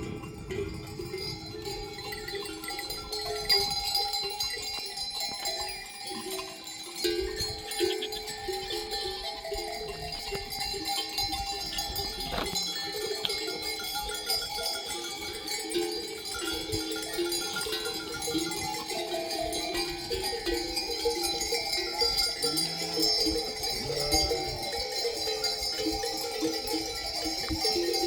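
Many livestock neck bells on a flock clanking and ringing at different pitches, overlapping without a set rhythm as the animals move.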